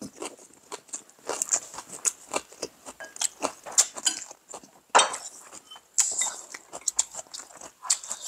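Close-miked eating sounds: chewing and wet mouth smacks, with light clicks of a spoon and chopsticks against ceramic bowls. There is one louder smack about five seconds in.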